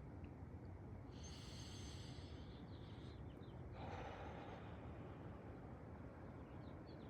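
A man breathing in sharply through the nose about a second in, then breathing out near four seconds, as paced breathwork. Faint bird chirps over a steady low background.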